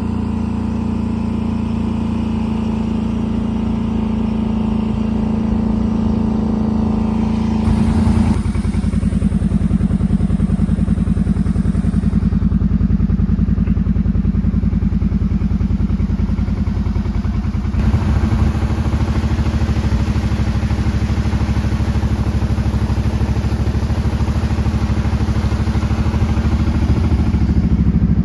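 Motorcycle engine running while riding, a steady engine note that shifts about eight seconds in and again at about eighteen seconds.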